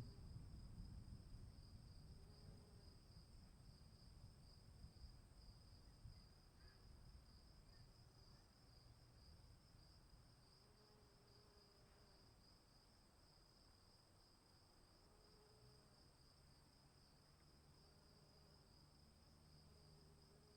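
Crickets trilling steadily and faintly, a continuous high pulsing chirr. A low rumble underneath fades away over the first half.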